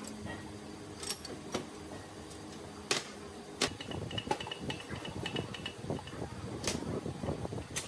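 Metal hand tools clinking against a diesel inline injection pump and steel vise as it is taken apart: about five sharp separate clinks, with low scraping and handling noise thickening from about halfway.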